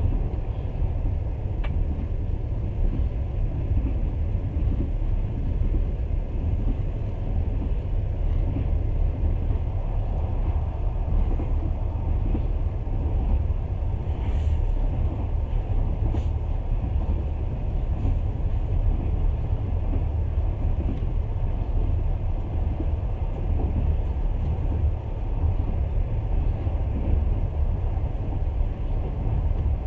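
Steady low rumble of a moving passenger train carriage running on the rails, with a few faint brief clicks.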